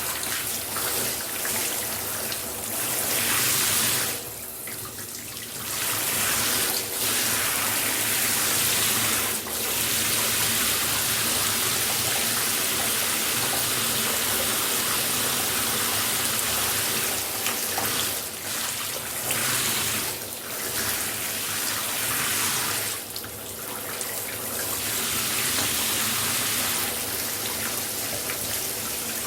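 Shower spray running steadily: a dense hiss of falling water, thinning briefly a couple of times.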